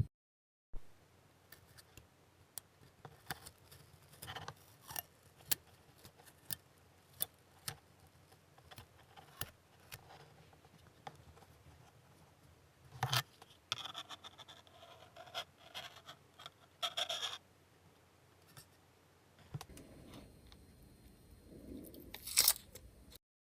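Faint, scattered clicks, taps and short scratching sounds of small hand tools and plastic parts being handled at a modelling bench, with a denser run of scratching about two-thirds of the way through.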